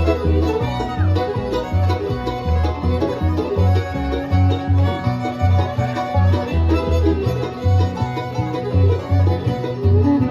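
Bluegrass band playing an instrumental passage with no singing: banjo picking over guitar and fiddle, with a steady bass beat about twice a second.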